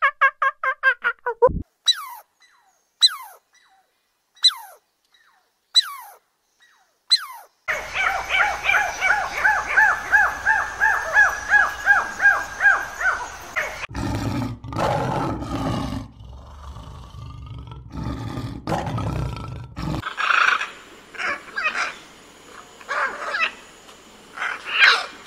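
A string of different animal calls with abrupt changes between them. First a quickly pulsing call, then short falling chirps about every second and a half. Next comes a long, rapidly pulsing call, and harsh screeches close out the sequence.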